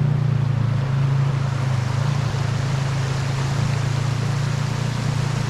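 Yamaha WR250R's single-cylinder engine idling steadily, over the rushing of a river.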